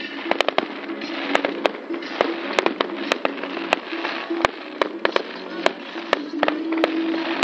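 Fireworks display: many sharp bangs from bursting shells, several a second and irregularly spaced, over a continuous crackling hiss.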